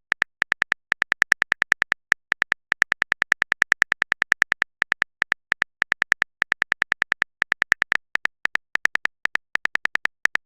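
Typing sound effect: rapid short clicks, about six to eight a second, in runs broken by brief pauses.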